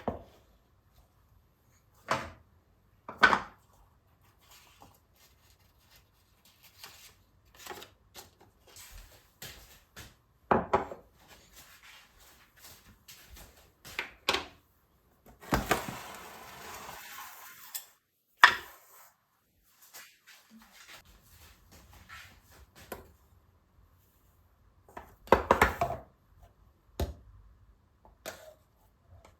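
Scattered knocks and thuds of objects being handled and set down on a hard surface, with a rustling, scraping stretch of about two seconds midway and a quick cluster of knocks near the end.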